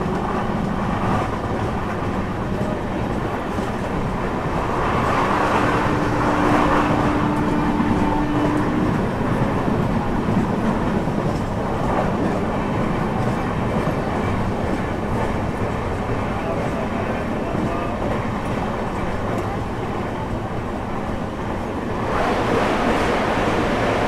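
Running sound heard from inside an LHB passenger coach of the Deccan Queen: a steady rumble and hiss of wheels on rail, with faint clicks as the wheels cross rail joints. A steady tone sounds about five seconds in for around three and a half seconds, and the rush grows louder near the end.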